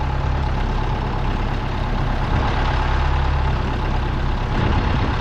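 Heavy farm vehicle engine running steadily with a deep low rumble.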